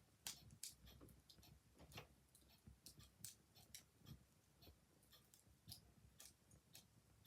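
Wood fire crackling quietly in a fireplace: scattered, irregular sharp pops and snaps over a low, faint murmur.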